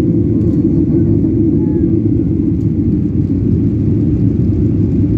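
Steady, loud low rumble of a Boeing airliner's jet engines and airflow, heard from inside the passenger cabin.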